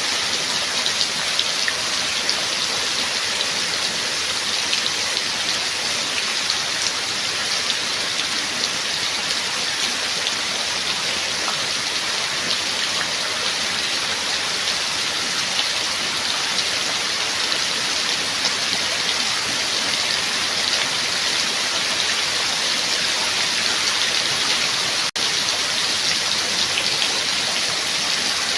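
Steady rain, a dense patter of countless drops hitting a surface. It cuts out for an instant once, near the end.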